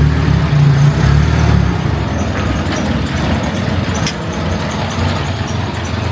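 Motor vehicle engine idling, a steady low hum that is strongest for the first couple of seconds and then settles into a broader rumble. A few sharp clicks sound over it.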